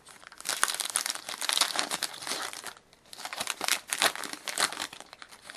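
A hockey card pack's wrapper being torn open and crinkled by hand, in two long stretches of crackling with a short pause between them.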